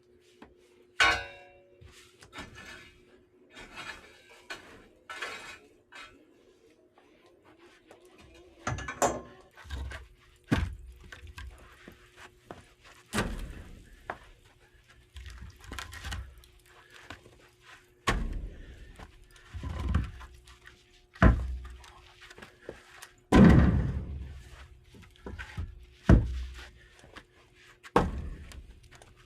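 A series of irregular thuds and knocks, sparse at first and then coming every second or two and louder in the second half.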